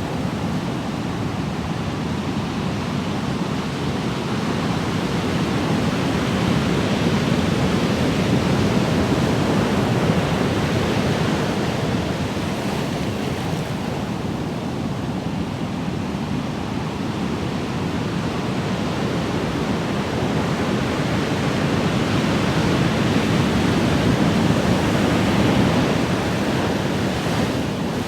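Ocean waves: a continuous rush of surf that swells louder twice, about a third of the way in and again near the end.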